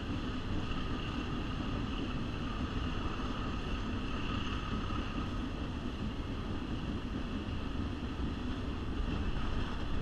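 Train running steadily up a steep 4% grade, heard from an open-air car: a continuous rumble of the train with wind on the microphone.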